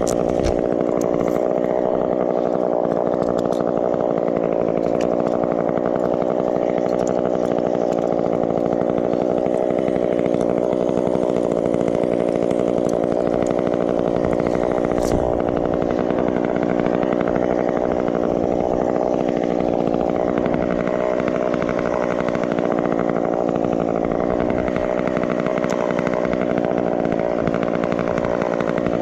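Gasoline chainsaw running steadily at a constant engine speed, with a brief sharp click about halfway through.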